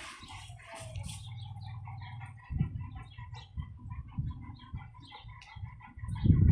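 Birds calling in quick, short, repeated notes, clucking like chickens. A low rumble on the microphone comes in about two and a half seconds in and is loudest near the end.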